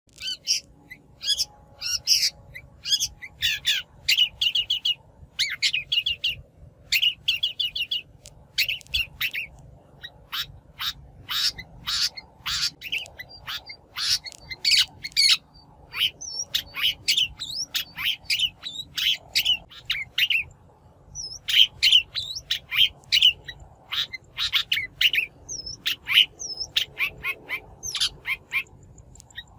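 A shrike giving rapid, harsh chattering calls in quick clusters of short notes with brief pauses between them. This is a shrike lure-call recording.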